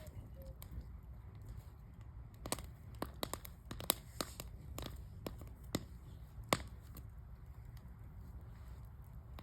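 Wood fire burning in a metal fire barrel, crackling with a run of sharp pops from about two and a half to seven seconds in, over a low steady rumble.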